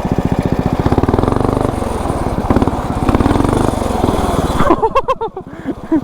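Tecumseh 10 hp single-cylinder flathead engine running with a rapid, even firing beat while the machine sits stuck on a piece of wood. About five seconds in, the engine sound drops away briefly and a short wavering pitched sound is heard.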